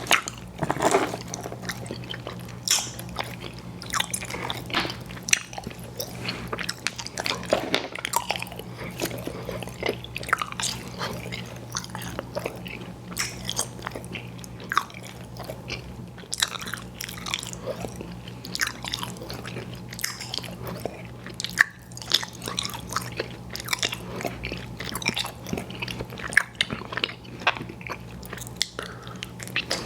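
Close-miked chewing of chewy fruit candies: a steady, irregular run of wet mouth smacks and clicks, with a low steady hum underneath.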